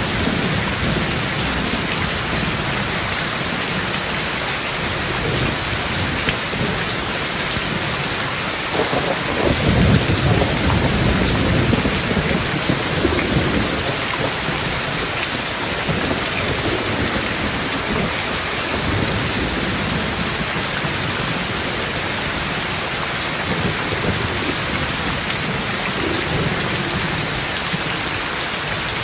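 Heavy steady rain with rolling thunder rumbling underneath, swelling loudest about a third of the way in and again briefly near the end.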